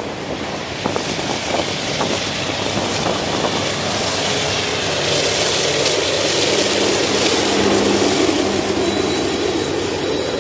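Freight train rolling past on the rails: a steady loud rumble and rush of wheels on track, with a few sharp clicks in the first couple of seconds and a steady low hum rising out of it past the middle.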